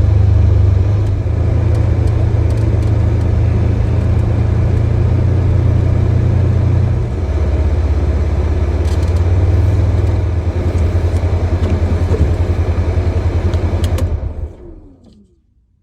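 Engine of a 2022 Polaris Ranger Crew XP 1000 side-by-side running steadily with a low drone. The drone dips briefly about seven seconds in, then dies away near the end.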